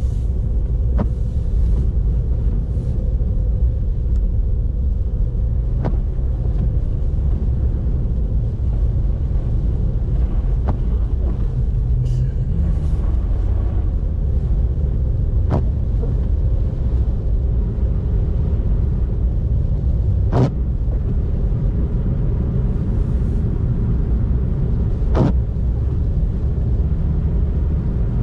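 A car driving: a steady low rumble of engine and tyre noise, with a short sharp click about every five seconds.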